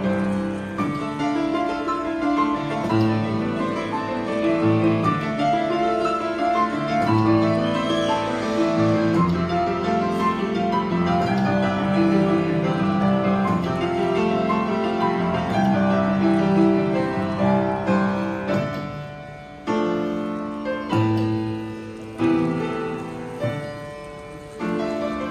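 Acoustic piano played by hand: a flowing melody over a moving bass line. In the last few seconds the playing breaks into separate struck chords, each left to ring before the next.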